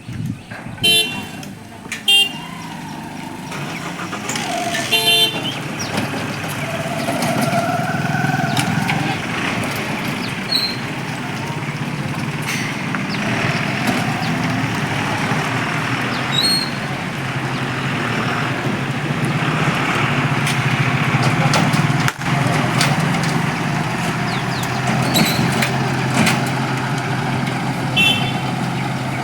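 Road traffic with engines running and several short horn toots from cars and motorbikes, a few near the start and one near the end.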